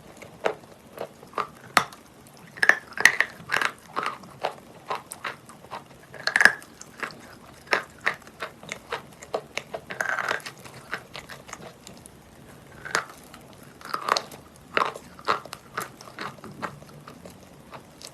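Close-miked biting and chewing of wet natural Valuyki chalk: irregular crunches, several a second, with a few louder bites among them.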